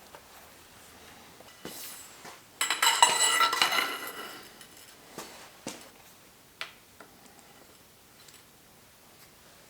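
Small metal parts or tools clattering and clinking, with a ringing rattle lasting about a second and a half near the middle, then a few single clicks.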